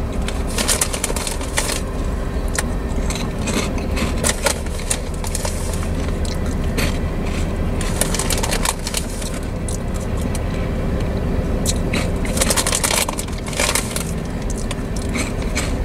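Freight train tank cars rolling past: a steady low rumble of steel wheels on rail, with short bursts of scraping and squealing from the wheels, thickest about half a second in, around seven seconds and around twelve to thirteen seconds.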